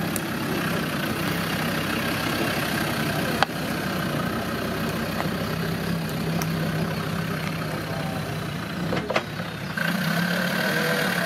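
Off-road 4x4's engine idling steadily, with two sharp knocks, one about a third of the way in and another near the end.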